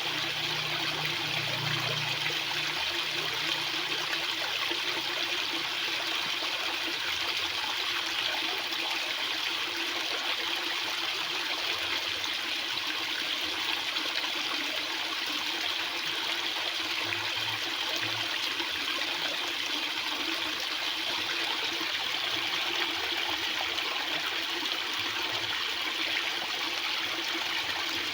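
Fast-flowing water rushing steadily, an even hiss with no breaks or changes.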